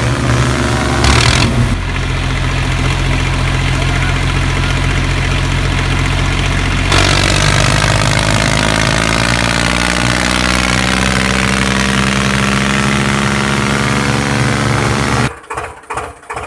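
Tractor engine running steadily, with its note shifting and gliding from about seven seconds in. Near the end it cuts off abruptly to an even rhythmic pulsing.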